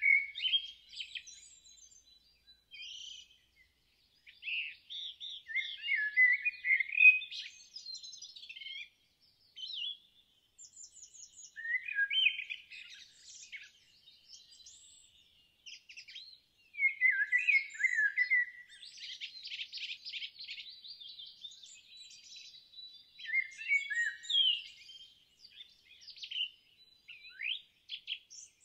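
Songbirds singing: short warbled phrases of chirps and whistles with brief pauses between them, and a rapid trill of repeated notes about two-thirds of the way through.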